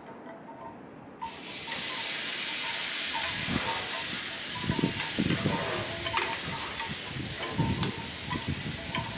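Marinated steaks sizzling on a grill, a steady hiss that starts suddenly about a second in.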